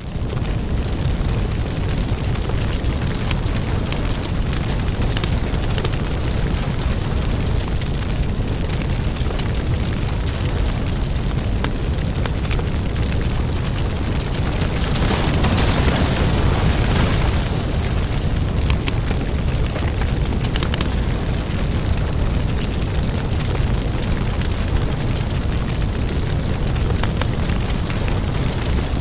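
Fire burning in a fireplace: a steady low rumble of flames with frequent sharp crackles and pops. A brighter hiss swells for a couple of seconds about halfway through.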